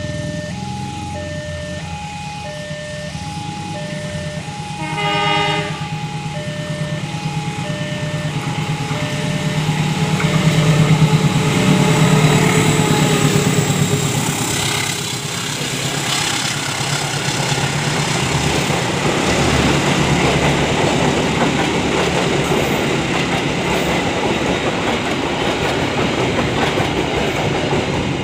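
A level-crossing warning chime repeats in short steady tones, with a short blast of a locomotive horn about five seconds in; the chime stops soon after. A KAI diesel-electric locomotive then runs past, loudest around ten to thirteen seconds in, followed by passenger coaches rolling by with wheels clattering on the rails.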